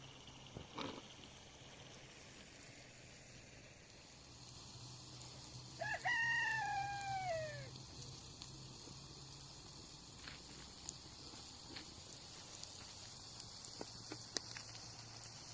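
A rooster crows once, about six seconds in: a single call of under two seconds that rises and then falls away.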